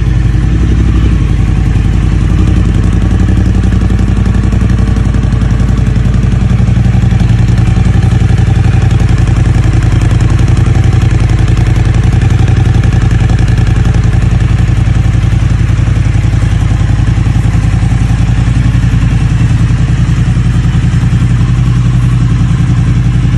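Triumph Speed Twin 900 motorcycle's 900 cc parallel-twin engine running steadily at idle.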